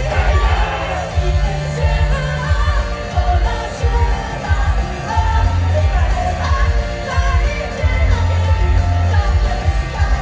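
Live band playing with a singer, a heavy bass line and drums under the vocals.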